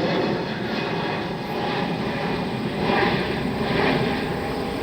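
Jet airliner engines at an airport, a steady rushing noise.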